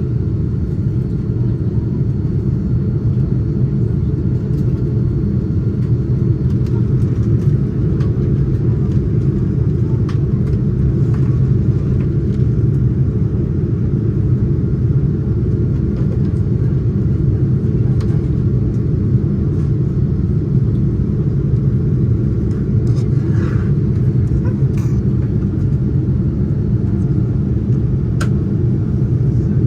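Steady low rumble of engine and airflow noise inside a Boeing 787-9 passenger cabin in flight, heard from a window seat. There are a few faint small clicks near the end.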